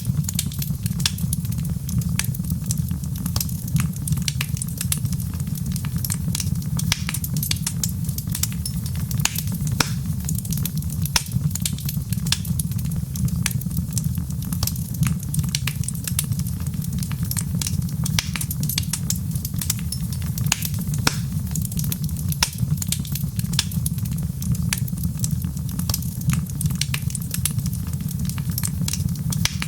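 Fireplace fire crackling: frequent sharp pops and snaps over a steady low rumble.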